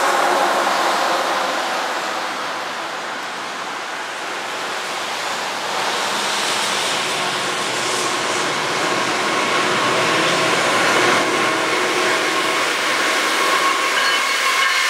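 Union Pacific doublestack freight train passing: diesel locomotives running and steel wheels rumbling on the rails. The noise swells as the lead locomotives come by about two thirds of the way in, then carries on as the container well cars roll past.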